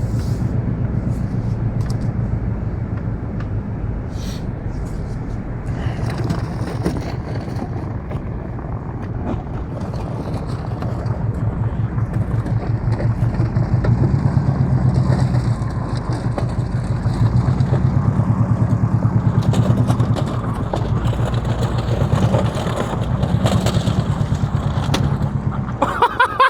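Subaru's flat-four engine running under load as it tows, its pitch stepping up and down several times as it accelerates and eases off.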